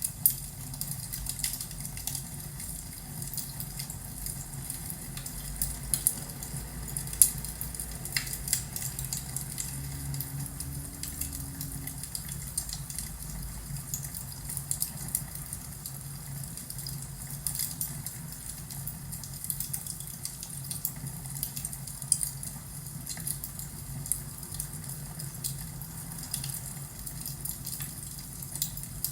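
Crackling wood fire in a fireplace: irregular pops and snaps over a steady low rumble.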